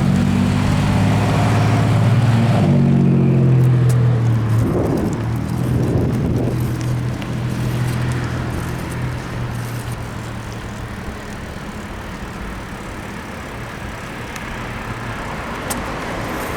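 A motor vehicle's engine running close by, loud for the first four seconds or so, its pitch shifting about three seconds in. It then gives way to a steady rush of road and wind noise.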